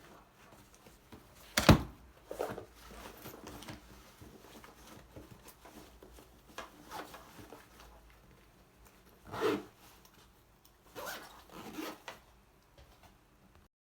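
Small handling noises from objects being moved about: a sharp knock a little under two seconds in, soft rubbing and rustling, a duller knock about two-thirds of the way through, then two lighter knocks.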